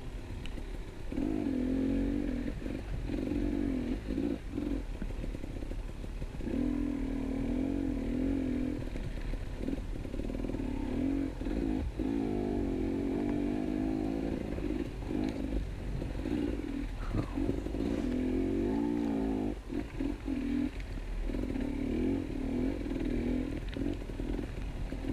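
KTM 250 EXC enduro motorcycle engine under way, its pitch rising and falling again and again as the throttle is opened and closed, with brief let-offs such as one about twenty seconds in.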